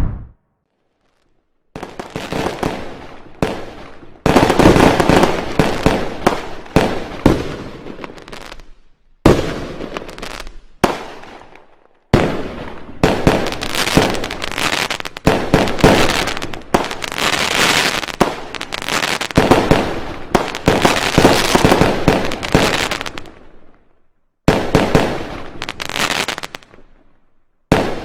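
Fireworks and firecrackers going off: dense strings of sharp bangs and crackling, starting about two seconds in. They come in several back-to-back runs, each starting and stopping abruptly.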